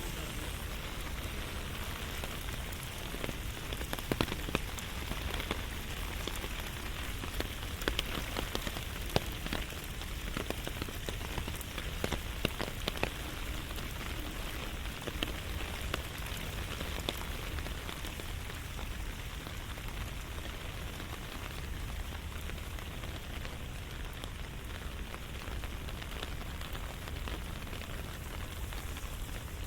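Steady rain falling, with many scattered drop hits and a few sharper, louder ones in the first half.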